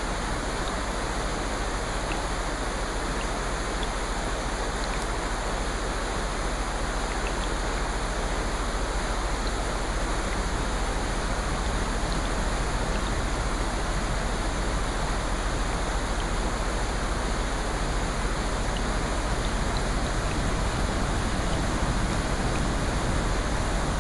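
Steady, even rushing of rain, with a few faint tiny ticks over it.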